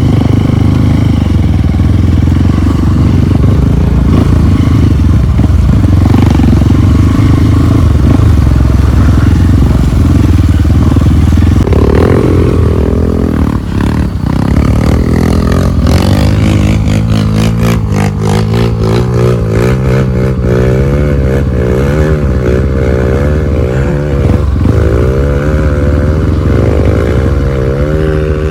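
Off-road trail motorcycle engine running hard. About halfway through, its pitch starts rising and falling over and over as the throttle is worked, with some clatter.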